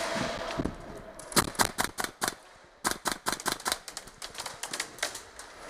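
Airsoft guns firing in rapid strings of sharp cracks. There are two bursts of about a second each near the middle, then fainter, sparser shots.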